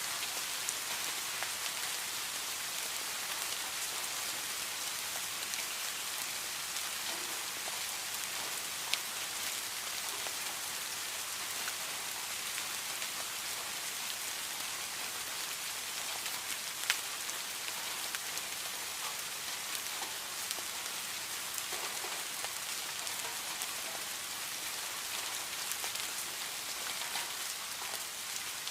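Steady rain falling, a continuous even hiss with individual drops ticking now and then; one drop lands louder just past halfway.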